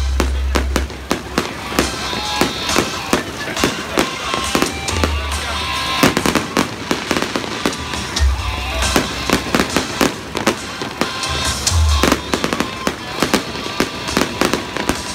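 Festive fireworks display: a dense, continuous run of shell bursts and crackling bangs, with deep booms now and then.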